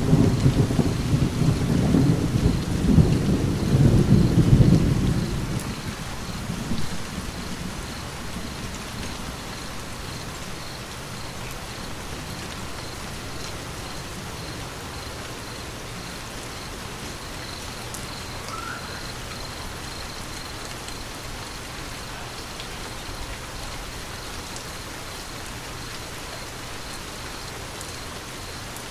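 Steady rain with a loud roll of thunder at the start that rumbles for about six seconds and dies away, leaving the even hiss of falling rain.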